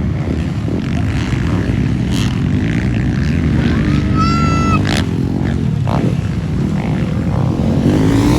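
Motocross dirt bikes racing, their engines running loud and revving up and down as they pass. A brief high-pitched call rises and holds about four seconds in.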